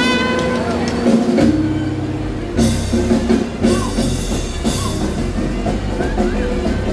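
Band music with brass and drums: a held horn note dies away in the first second, then a bass line comes in and a steady drum beat starts about two and a half seconds in.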